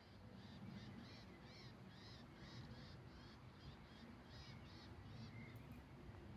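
A small bird calling faintly: a run of a dozen or so short, high chirping notes, about two or three a second, that stops near the end.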